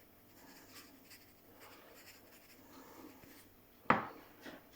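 Faint scratching and rubbing handling noises, then a single sharp knock about four seconds in.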